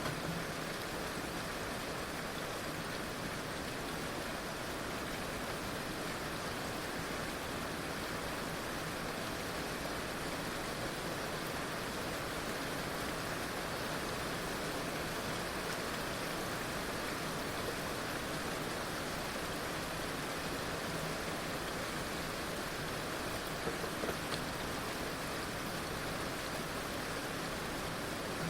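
Heavy rain falling steadily, a continuous even hiss of downpour with a few slightly louder drops or splashes about 24 seconds in.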